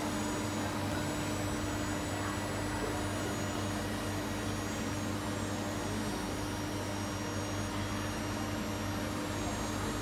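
Steady mechanical hum and whir of an electric train, with a constant low tone and no change in pitch or level.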